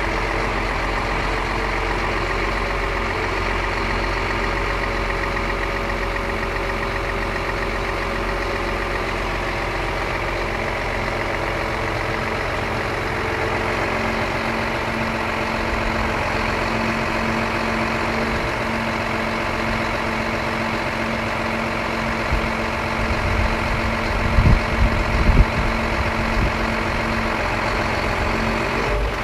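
Scania P114 340 lorry's 11-litre six-cylinder diesel running steadily at idle. A few short low thumps come near the end.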